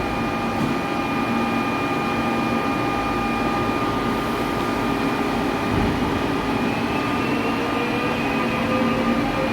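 Seoul Line 4 electric subway train with its traction inverter whining over the running rumble. Several steady electric tones hold level, then from about seven seconds in they rise in pitch as the train picks up speed.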